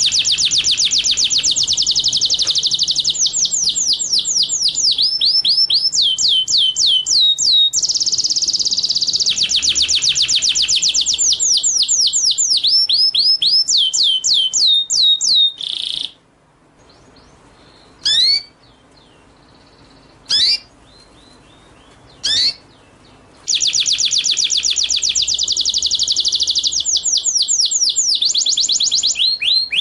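Recorded small songbird song of the kind used as a masteran training track: long, fast runs of sharp, falling high notes. About sixteen seconds in the song breaks off into a pause with three single calls, and the fast runs start again about seven seconds later.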